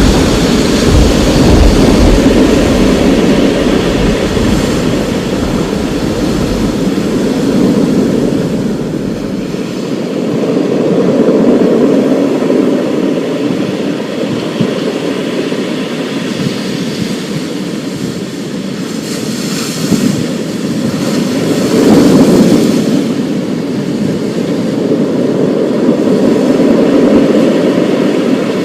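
Thunderstorm with rolling thunder rumbling on and on, swelling and fading in waves. It is deepest in the first several seconds, with a sharper clap a little past twenty seconds in.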